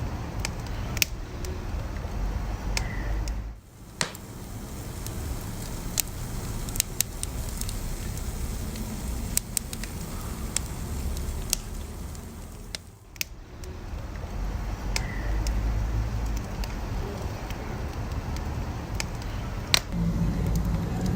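Wood fire burning with a steady low rumble and scattered sharp crackles and pops. The sound drops away briefly twice.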